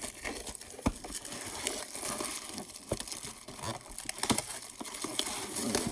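Plastic shrink wrap crinkling and tearing as a sealed hockey card hobby box is unwrapped, with a run of small crackles and clicks.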